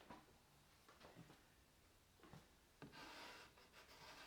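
Near silence, with a few faint small knocks and a brief faint rubbing about three seconds in, from handling around a clamped wood glue-up.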